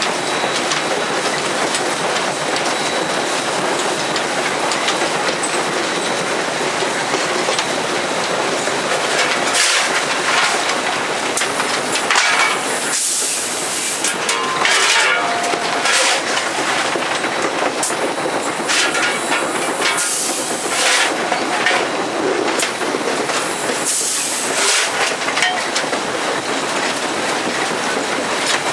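Southern Railway 630, an Alco 2-8-0 steam locomotive, running along, heard from inside the cab: a steady loud din of the engine and the wheels on the rails, broken by several short bursts of hissing about halfway through and again near the end.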